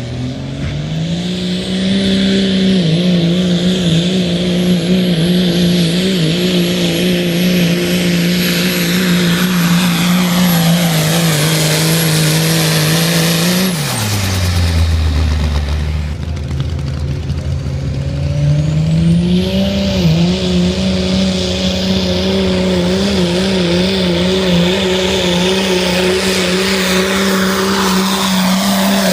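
Diesel 4x4 pickup truck engine at full throttle in a truck pull, revving up and holding high with a wavering pitch under load, with a high whistle above it. About halfway through it drops off sharply, then revs back up and holds again.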